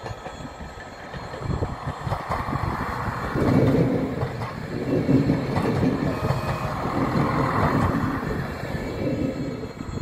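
A red-and-grey multiple-unit passenger train passing close by, its wheels rolling over the rails. The noise builds about a second and a half in, is loudest through the middle and fades near the end as the train moves away.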